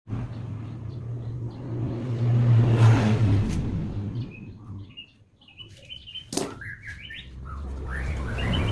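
Birds chirping over a steady low hum, with a single sharp knock about six seconds in.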